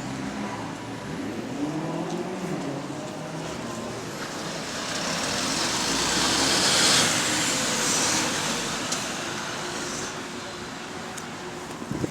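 Electric bus in motion heard from inside the cabin: road and running noise with a faint whine that glides up and down in pitch early on, the odd noise the bus makes when it coasts. A rush of hiss swells to a peak a little past the middle and fades.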